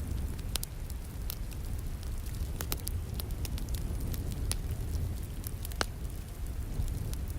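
Wood fire crackling in a fireplace, with irregular sharp pops and snaps over a steady low rumble and rain hiss.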